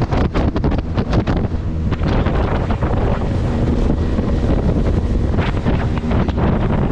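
Heavy wind buffeting the microphone, with water rushing and splashing past a moving boat.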